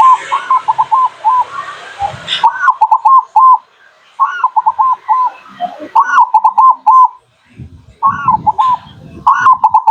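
Zebra dove cooing: about six phrases of short, clipped coos, each opening on a higher note and then running quickly through four or five lower ones, roughly every second and a half. A steady hiss behind the first phrases stops abruptly about two and a half seconds in.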